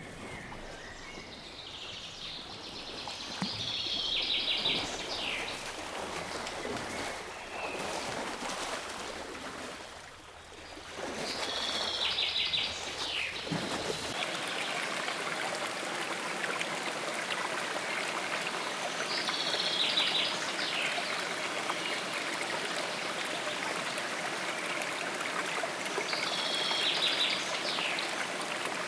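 Ambience of a running stream, steady and growing a little louder about halfway through. A bird sings a short phrase over it about every seven to eight seconds.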